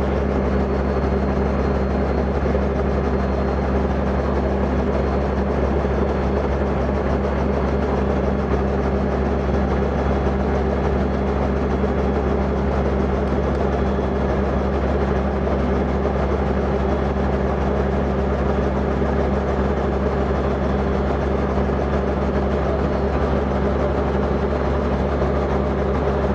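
Robinson R44 helicopter's six-cylinder piston engine and rotor running steadily on the ground while warming up before takeoff, a constant low drone with steady engine tones.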